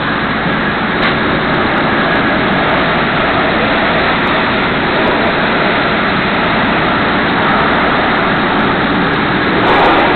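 Automatic car wash tunnel machinery running: a loud, steady rushing noise, growing a little louder near the end.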